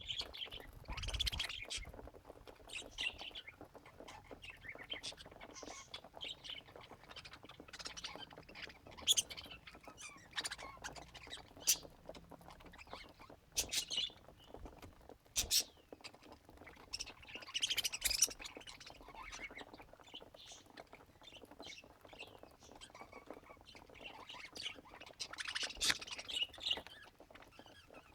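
Budgerigars chirping and chattering in short, irregular calls, with a few sharp clicks in between.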